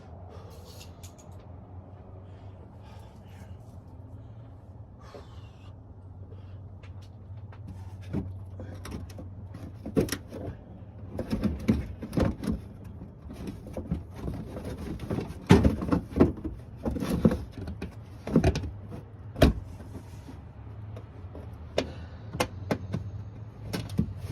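A series of sharp knocks and clunks, starting about a third of the way in and loudest in the middle, over a steady low hum.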